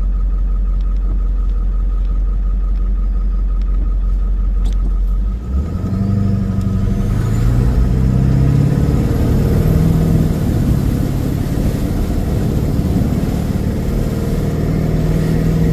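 Vehicle engine and road noise: a steady deep rumble, then about five seconds in the vehicle pulls away and the engine note rises in steps as it picks up speed.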